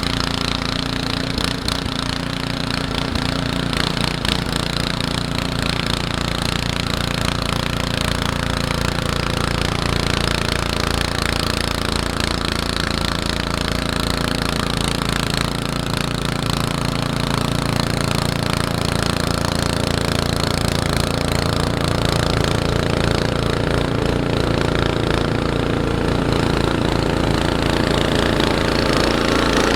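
Snowblower engine running steadily, a continuous mechanical drone with no breaks.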